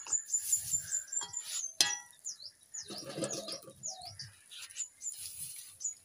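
Small birds chirping: a run of quick high notes, each dipping and rising, about twice a second. Under them is the hiss of batter sizzling in hot oil, and a single sharp knock comes near two seconds in.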